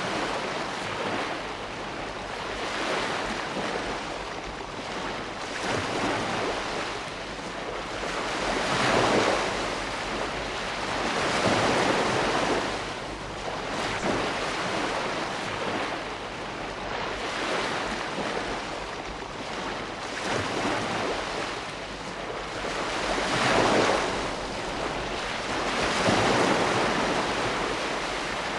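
Ocean waves breaking and washing on a shore, the surf noise swelling and ebbing every few seconds with no gap between waves.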